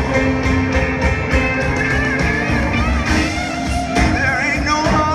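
Live blues-rock band playing, with an electric lead guitar bending and sliding its notes over bass and drums.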